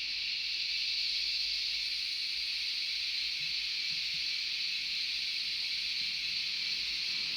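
Steam-locomotive cylinder cocks sound from the DCC sound decoder of a Fleischmann N-gauge DR class 44 model, played through its small onboard speaker: a steady hiss of steam venting.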